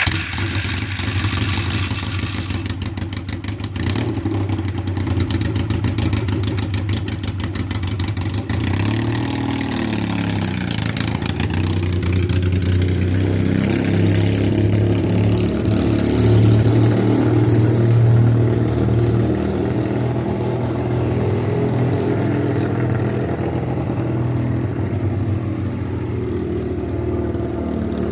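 1978 Yamaha XS650's air-cooled parallel-twin engine running, its revs rising and falling.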